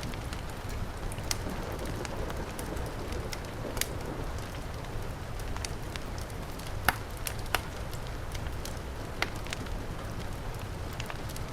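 Wood fire crackling with scattered sharp pops, the loudest two about seven seconds in, over the steady rush of heavy rain.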